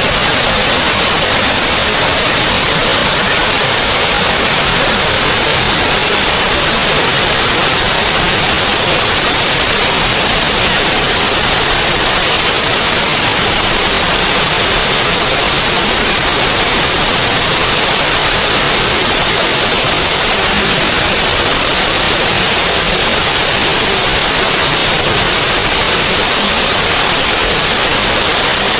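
Small waterfall rushing steadily: a loud, even hiss of falling water.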